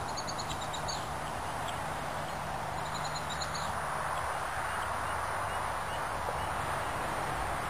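Steady outdoor background hiss, with two short runs of rapid, high chirps from a small bird, near the start and again about three seconds in.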